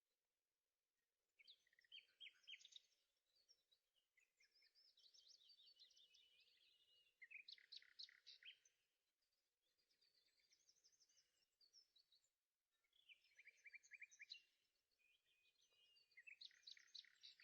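Faint birdsong: a songbird singing in short phrases of quick chirps and trills, with brief pauses between them.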